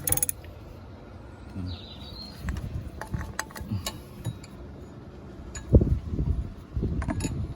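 Handling noise: scattered light clicks and clinks with several dull thumps, the loudest about six seconds in, and a short bird chirp about two seconds in.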